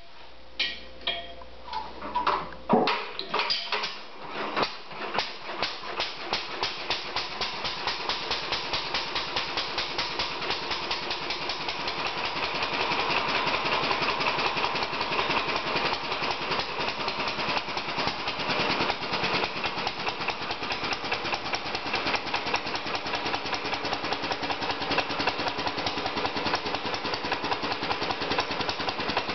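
1936 McCormick-Deering LA single-cylinder gas engine starting: a few slow, uneven firing strokes in the first seconds, then it picks up speed and settles into a steady, even run. It starts right up and runs smoothly, its Wico AH magneto fitted with new points and condenser and recharged.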